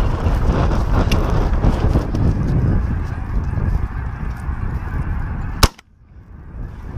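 Geese honking in a noisy clamour over a low rumble. A sharp click comes near the end, after which the sound suddenly drops away.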